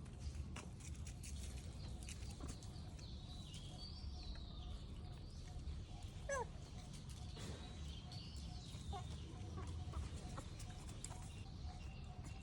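Short animal calls and high chirps over a steady low rumble, with scattered clicks; one louder call about six seconds in.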